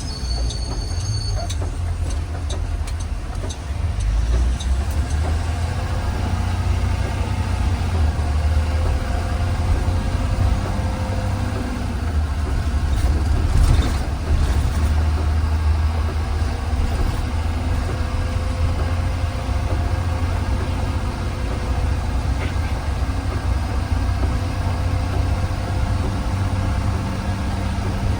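2020 Blue Bird Vision school bus driving, heard from inside the passenger cabin: a steady low engine and road rumble with a faint whine, and a brief rattle about halfway through.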